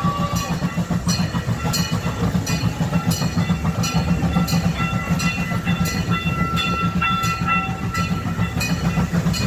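Gas-powered replica steam train running along its track, with a steady low engine rumble and a regular click of the wheels over rail joints about every two-thirds of a second. Faint thin high tones run in the background.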